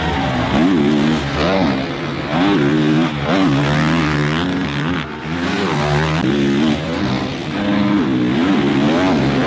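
Several 450cc four-stroke motocross bikes racing, their engines revving up and falling back over and over as the riders work the throttle and shift, with the notes of different bikes overlapping.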